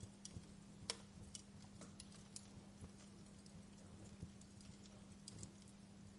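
Wood fire crackling: irregular sharp pops and snaps, one or two a second, the loudest about a second in, over a faint steady low hum.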